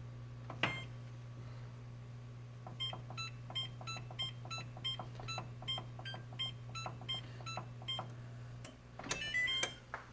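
Electronic oven control panel beeping, one short beep per button press at about three to four a second for several seconds, then a quick rising run of tones near the end as the oven starts to preheat. A steady low hum underneath stops just before the tones.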